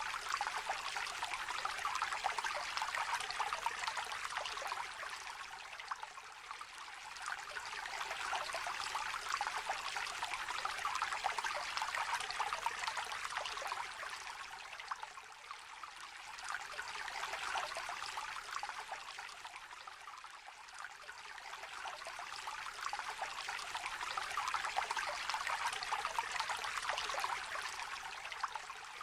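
Small stream trickling and babbling, a steady rush of water that swells and eases every several seconds.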